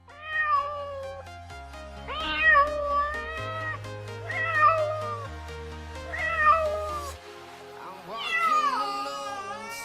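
Domestic cat meowing five times, each meow long and drawn out, about two seconds apart, over background music of sustained chords.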